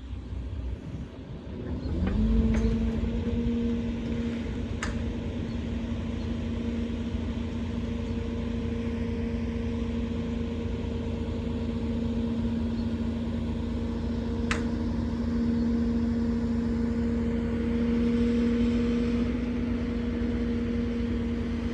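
Truck engine revs up about two seconds in and holds a high, steady speed, the raised revs that drive a truck-mounted loader crane's hydraulics while it lifts a load. A few sharp clicks sound over it.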